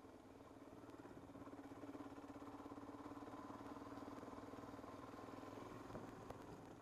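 Motorcycle engine running faint and steady at low speed, growing a little louder about a second in.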